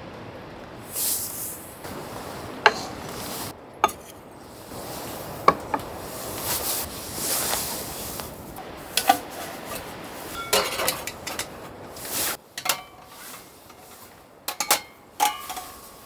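Dishes and utensils being handled: scattered sharp clinks and knocks, a dozen or so, irregularly spaced over a steady hiss.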